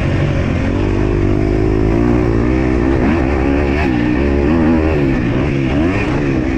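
MX2 motocross bike engine running hard, its revs rising and falling again and again as the throttle is worked.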